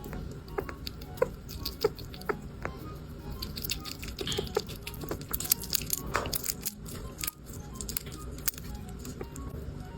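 A small animal chewing and biting into a snack, with many quick, irregular wet clicks and crunches, over soft background music.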